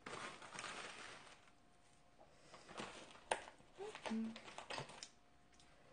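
Close-miked eating sounds: wet chewing and mouth smacking of octopus, with soft noisy chewing at first and then scattered short clicks and smacks.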